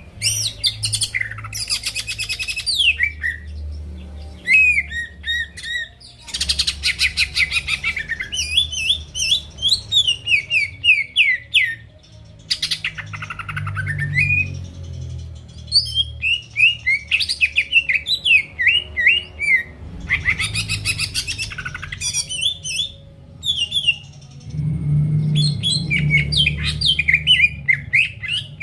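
Green leafbird (cucak ijo) singing loudly and continuously, in rapid varied phrases of quick rising and falling whistled notes broken by several buzzy rattling trills, over a low background hum.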